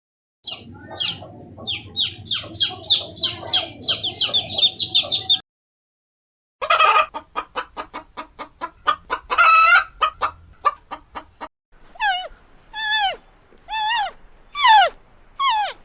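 Chickens clucking and cackling in three short takes, with brief silences between them. The last take is five drawn-out calls, each falling in pitch.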